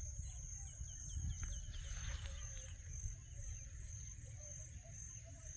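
Insects chirping outdoors in steady, even pulses about twice a second, with a quick run of higher chirps in the first two seconds, over a low continuous rumble.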